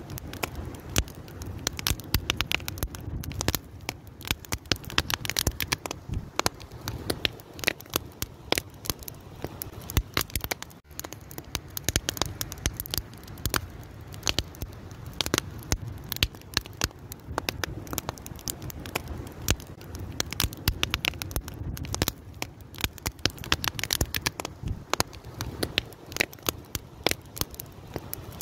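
Wood fire burning, with dense irregular crackles and pops over a low steady rumble of flame.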